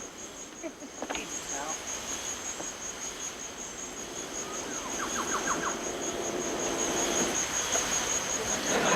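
An insect's steady, high pulsing trill, with a few short chirps and a quick run of about six chirps around five seconds in.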